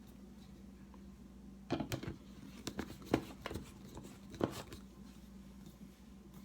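Light clicks and knocks of a blender's blade assembly and its broken rubber seal being handled and fitted back together, coming in a cluster from about two seconds in to about four and a half seconds in.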